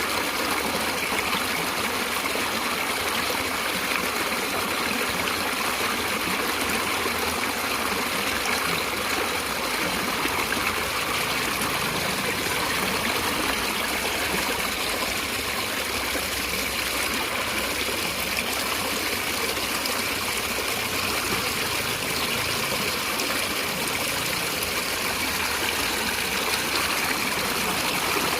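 Natural running water flowing steadily, an even rushing hiss without breaks.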